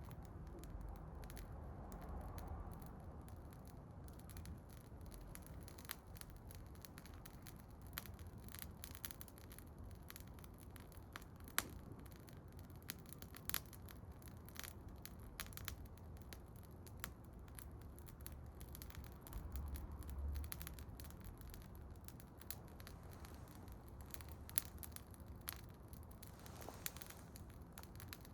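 Wood bonfire crackling, with irregular sharp snaps and a few louder pops over a low steady rumble of the flames.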